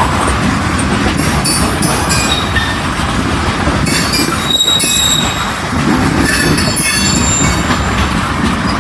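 Freight train rolling past at close range, a steady rumble of cars on the rails with short high-pitched wheel squeals now and then, one about halfway through and another later on.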